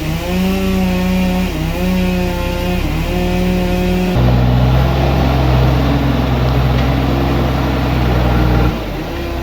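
Engine-driven sawmill machinery running, its pitch stepping up and down. About four seconds in it settles to a lower, louder steady note mixed with rushing noise, which eases off shortly before the end.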